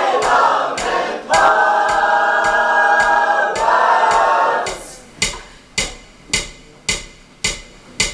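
Choir singing a rhythmic chant over a steady ticking, a bit under two ticks a second. The singing stops about five seconds in, leaving the ticking on its own.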